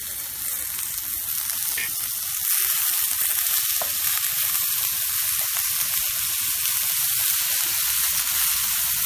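Sliced onions and soaked chana dal sizzling in hot oil in an iron kadhai while a spatula stirs them. The steady sizzle gets louder about two and a half seconds in.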